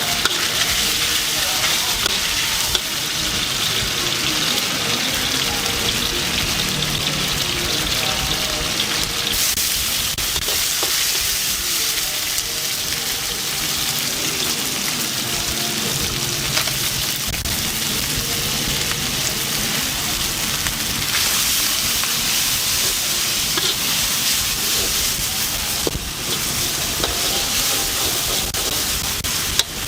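Rice noodles and chicken frying in a hot wok, sizzling steadily, with short clicks of the spatula against the pan as the food is stirred.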